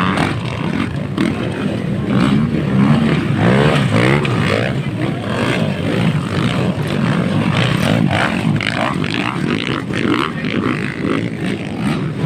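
Motocross dirt-bike engines revving, their pitch rising and falling again and again as several bikes run on the track.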